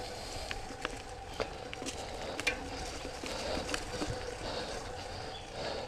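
Trek Mamba mountain bike riding over a dirt trail: tyres on the ground with scattered clicks and rattles from the bike over a steady hum.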